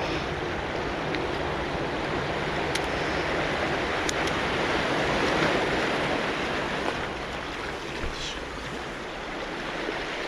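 Sea surf breaking and washing on a cobble beach: a steady rush of water that swells a little about five seconds in, with a few faint clicks.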